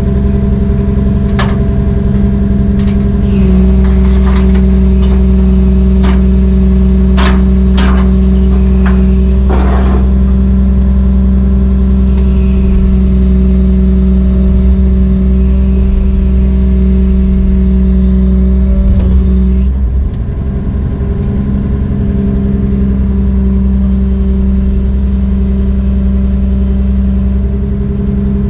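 Heavy diesel engine running steadily under load. It picks up a few seconds in, dips briefly about two-thirds of the way through, then steadies again. Several sharp clanks sound in the first ten seconds or so.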